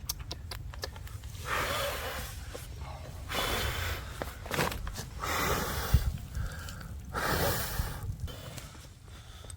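A person blowing hard into a campfire to make it burn hotter: four long, rushing breaths about two seconds apart. A few sharp clicks in the first second.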